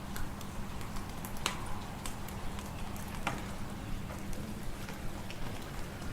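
Wood fire in a fireplace crackling, with small ticks throughout and two sharp pops, over a steady low wind rumble.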